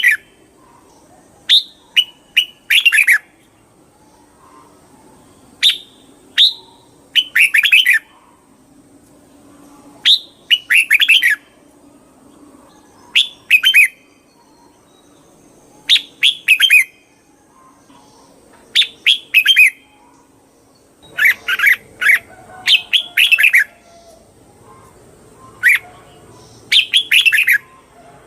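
Red-whiskered bulbul singing short, quick chirping phrases, one every two to three seconds.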